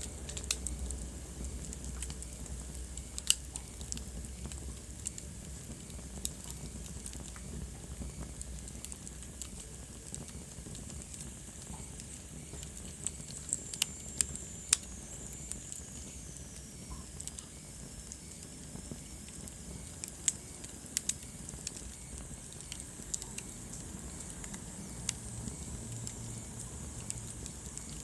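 Wood fire burning in a fireplace, crackling with scattered sharp pops over a steady hiss; the pops come thicker and louder around the middle. A faint high whistle slides down in pitch midway.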